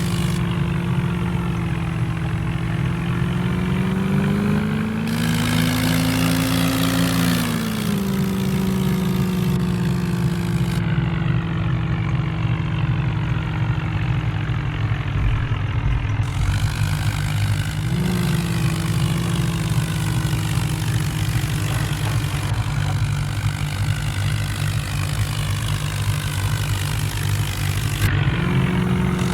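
A vehicle engine running steadily at idle. Its pitch rises in a brief rev about five seconds in, then settles back, with a short blip of throttle near the middle.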